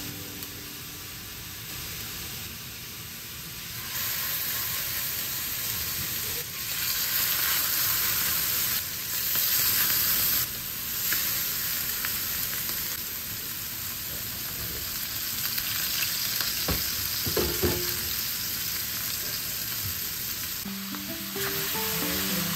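Meat patties sizzling in hot oil in a cast-iron skillet, the frying hiss jumping up about four seconds in as they go into the pan and staying. Background music comes in near the end.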